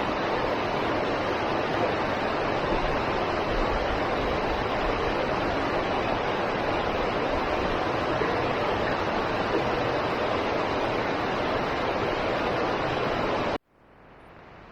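Steady rush of falling water from a waterfall, cutting off abruptly about a second before the end.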